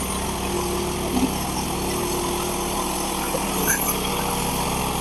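Portable band sawmill's engine running steadily under load while the band blade saws through a log.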